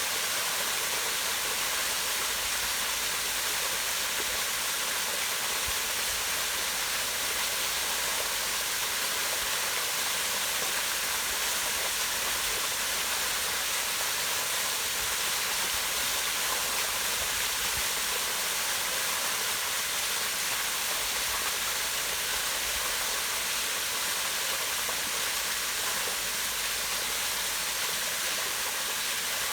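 Steady rush of a small waterfall pouring down rock into a pond, an even hiss of falling and splashing water.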